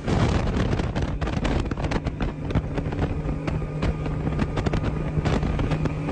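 Motorboat engine running at a steady pitch, with wind buffeting the microphone and many short sharp knocks.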